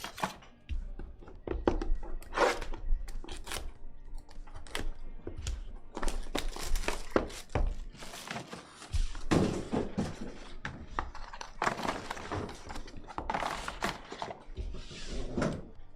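Trading cards and packs being handled on a table: repeated light knocks and taps, with several stretches of rustling and sliding.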